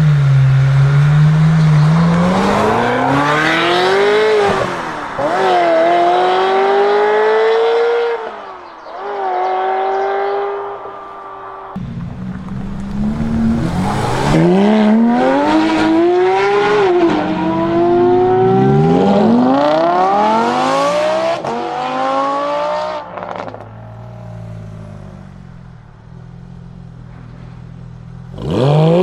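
Performance car engines accelerating hard through the gears: the engine note climbs, then drops back at each upshift and climbs again. There are two separate runs with an abrupt change about twelve seconds in, and a quieter, steady engine note near the end.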